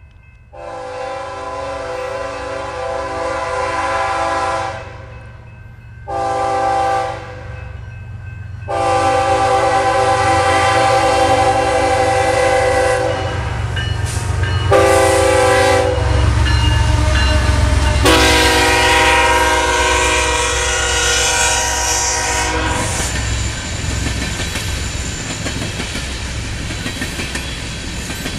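A BNSF freight diesel locomotive's multi-chime air horn sounds five blasts at a grade crossing: long, short, long, short, long. The lead engines then rumble past, and empty coal hopper cars roll by with steady wheel clatter on the rails.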